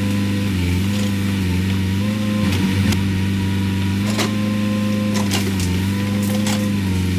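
Case 580 Super K backhoe loader's diesel engine running steadily at working revs, its pitch dipping briefly a few times as it takes load. A few sharp knocks sound over it, a cluster of them about two and a half seconds in.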